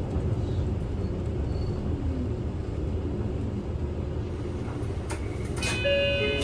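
Kyoto City bus interior on the move: a steady low engine and road rumble. Near the end come a couple of clicks and a brief ringing tone of several pitches.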